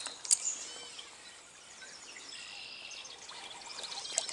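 Songbirds calling over a steady hiss of outdoor background, likely the stream, with one sharp click about a third of a second in.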